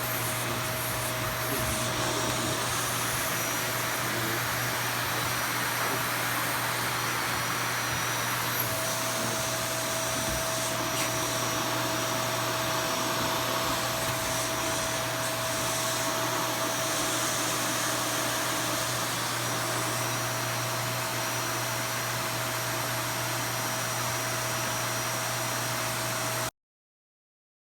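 Vacuum cleaner running steadily, a constant rushing hiss with a steady whine, cutting off suddenly near the end.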